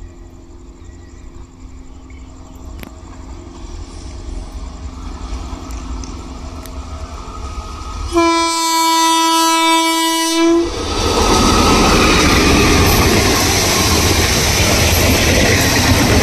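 Indian Railways express passenger train approaching at speed, a low rumble growing steadily louder, then the locomotive's horn blown in one long steady blast of about two and a half seconds. The train then passes close by, loud wheel-on-rail rushing and clickety-clack of the coaches.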